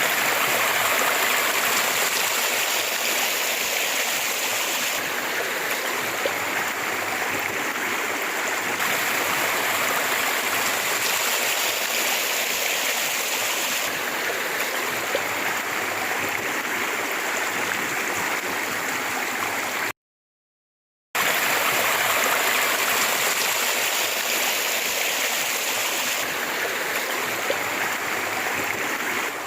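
River water flowing steadily in a loud, even rush. It cuts out for about a second around twenty seconds in, then resumes.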